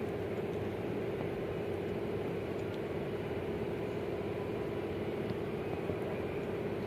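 A steady mechanical hum with a constant drone, unchanging throughout.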